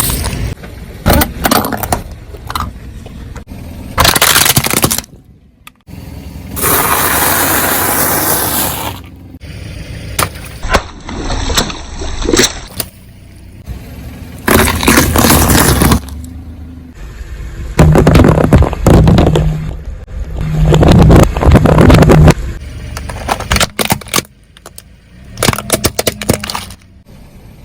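A car's tyres rolling over and crushing soft-drink containers and other crunchy things: a series of loud crunching, cracking and breaking noises, with the car running between them. Several short clips follow one another with abrupt changes.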